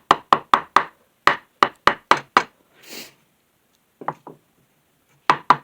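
Sharp knocks on wood as the glued-up cutting-board strips are tapped flush in the clamps: a run of about four quick knocks, then five more, two lighter taps near the middle, and another quick run near the end. A short scrape sounds about three seconds in.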